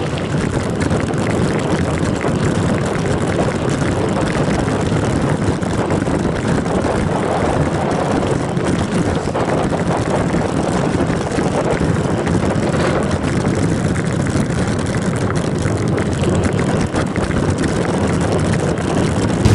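Steady rush of wind and riding noise on the microphone of a camera carried on a moving mountain bike.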